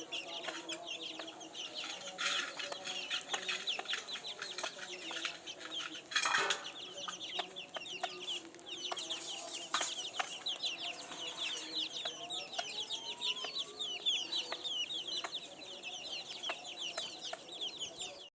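Many newly hatched chicks peeping in a continuous chorus of short high chirps, with scattered light taps or clicks and a louder burst about six seconds in. The sound cuts off suddenly at the end.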